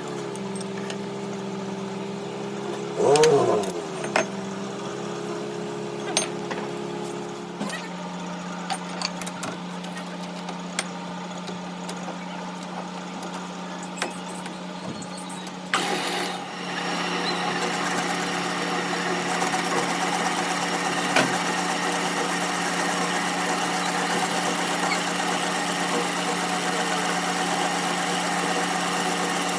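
Workshop machinery running with a steady hum; about sixteen seconds in, a louder machine starts up, adding a high whine and hiss that then runs steadily.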